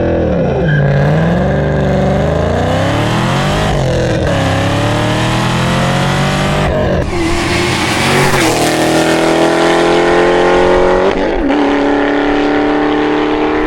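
Supercharged 6.2-litre LSA V8 cars accelerating hard on flybys, the engine note climbing and falling and broken off sharply a few times.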